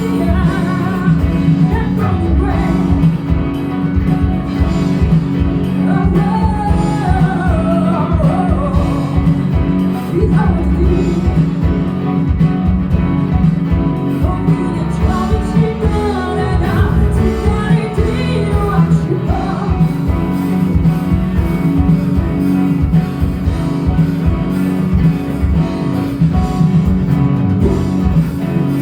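Live band performance: a singer over guitar and a full band with a steady beat.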